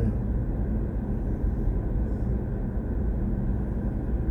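Steady low road and tyre rumble from a BMW i4 M50 being driven at a constant pace. As an electric car it has no engine note, so the sound is mostly tyres on the road surface.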